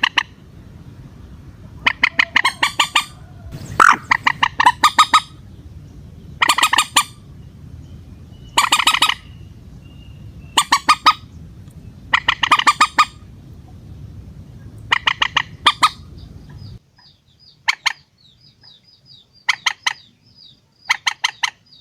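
Moorhen calling: repeated bursts of rapid clucking notes, roughly one burst every two seconds. A low background hum under the calls stops about seventeen seconds in, after which the bursts come shorter.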